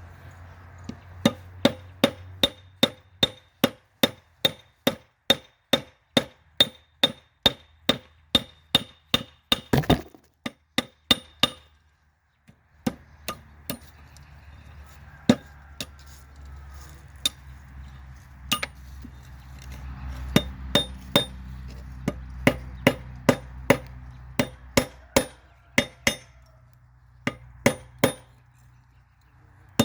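Hand hammer striking hot steel on an anvil, forging a railroad spike into a kukri blade: a steady run of ringing blows about three a second, breaking off briefly around the middle and then resuming less evenly.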